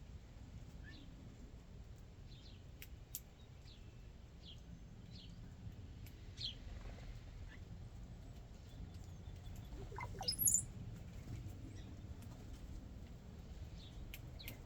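Backyard songbirds giving short, scattered chirps, with one louder call about ten seconds in that sweeps sharply upward in pitch, over a steady low background rumble.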